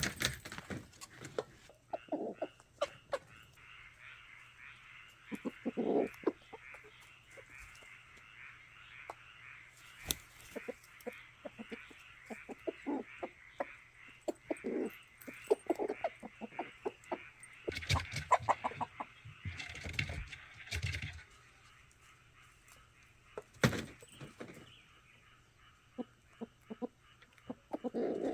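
Domestic chickens clucking in short, scattered calls over a steady high chirping, with many small knocks mixed in.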